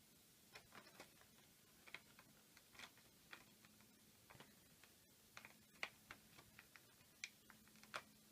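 Faint, irregular clicks and taps of a small plastic action figure and its parts being handled and posed.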